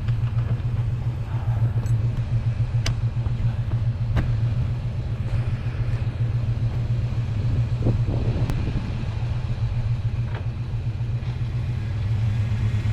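1980 Chevy K20 pickup's engine running steadily with a low hum, a few short clicks over it.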